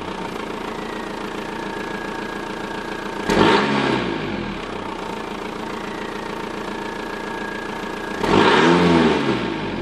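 Audi A4 1.9 TDI four-cylinder turbodiesel, tuned from 81 kW to 121 kW, idling and revved twice: a short blip about three seconds in and a longer rev of about a second near the end, each rising in pitch and falling back to idle.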